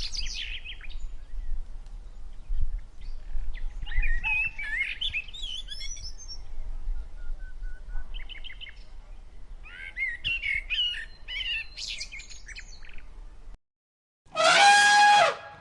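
Birds chirping and warbling in short, varied calls over a low background hum. Near the end the birdsong stops, and after a brief gap a different, louder call with a steady pitch sounds for about a second.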